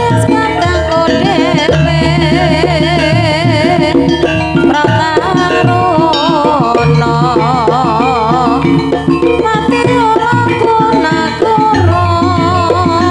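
Javanese gamelan music in the Banyumas ebeg style: kendang hand drums over layered metallophones, with a high melody line that wavers in pitch. A deep low note comes in near the end.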